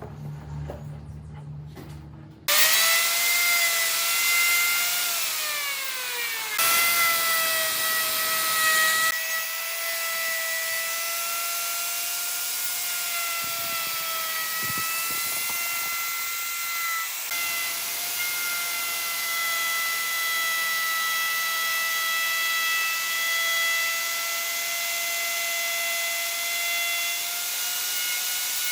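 An electric power tool starts up about two and a half seconds in and runs with a steady high whine over a hiss. Its pitch sags once for a couple of seconds, as under load, then holds steady.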